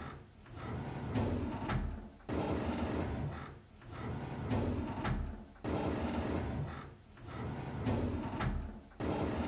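A drawer sliding open, repeated about every three seconds: each starts suddenly and runs on as a sliding rumble that fades away.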